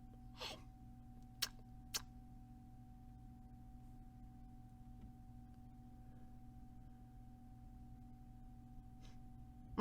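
Near silence: faint steady electrical hum with a thin high tone, a short soft noise about half a second in, and two small sharp clicks around one and a half and two seconds in.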